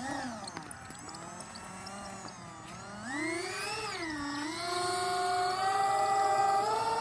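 Whine of the Dynam Turbojet 550's twin electric ducted fans, its pitch swinging up and down with the throttle and then climbing in steps near the end as power is added.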